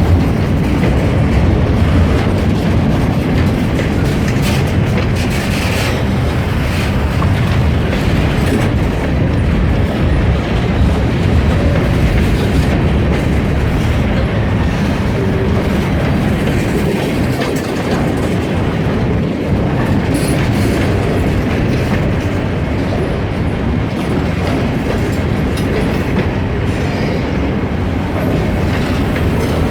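Freight train rolling past: a steady, loud rumble of wheels on rail with scattered clicks as the cars pass over the joints.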